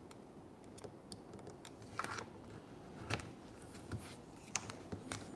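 Faint scattered clicks and ticks of hands working vinyl wrap against a mini fridge's panels, spaced about a second apart.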